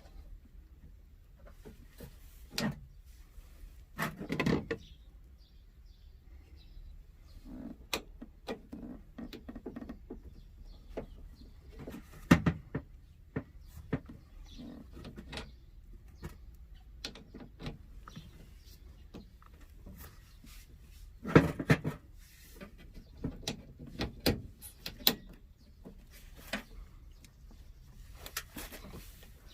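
Irregular clicks, knocks and rustles of hands handling tools or parts, the loudest knocks about 4, 12 and 21 seconds in, over a faint steady low hum.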